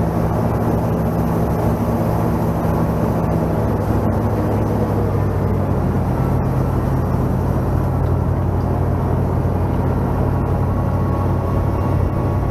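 An engine running steadily, its pitch dropping about five seconds in and then holding.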